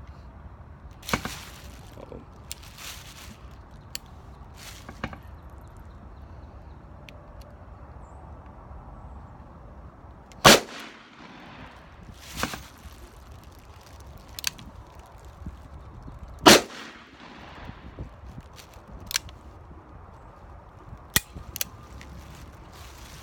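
Gunshots from a Smith & Wesson 686 Plus .357 Magnum revolver fired double action with Winchester 110-grain hollow-point rounds, spaced a few seconds apart. The two loudest come about ten and sixteen seconds in, with fainter shots between and after.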